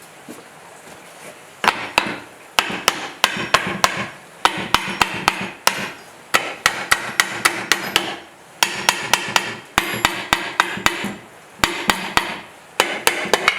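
Hammer blows on metal, starting about a second and a half in, in quick runs of several strikes with short pauses between, each strike ringing briefly.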